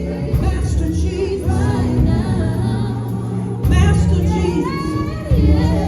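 Live gospel music: women's voices singing over a band, with sustained low bass notes underneath.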